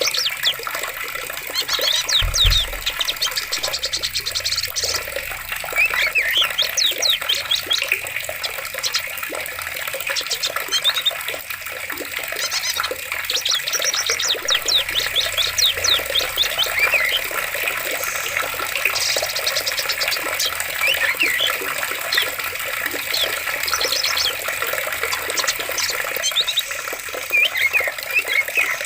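Running forest water, a steady rushing, with many birds chirping and trilling over it in quick repeated phrases. A brief low thud about two seconds in.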